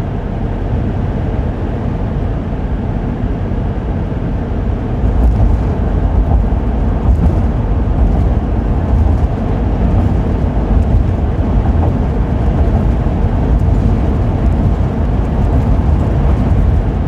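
Cabin noise of a Class C motorhome cruising at highway speed: a steady low rumble of engine and road, a little louder from about five seconds in.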